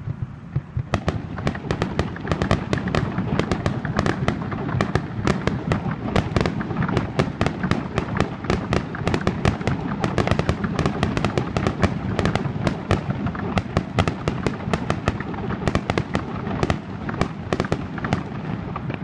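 Aerial fireworks shells bursting in a rapid, continuous string of bangs, several a second. The bangs start about a second in and thin out near the end.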